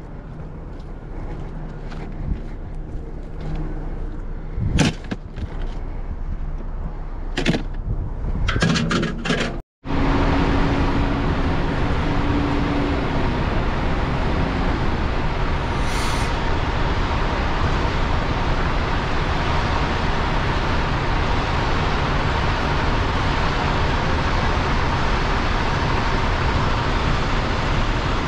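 A few sharp knocks and clicks, then, after a sudden cut, steady road and tyre noise from a moving car.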